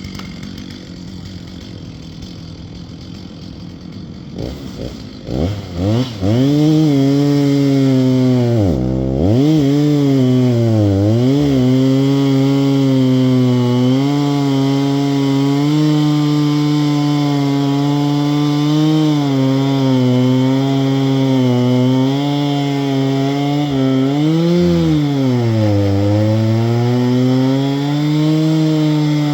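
Two-stroke chainsaw started about five seconds in, revving up and down briefly, then running loud and steady at high revs. Its pitch drops briefly a few times, as when the chain loads up in a cut.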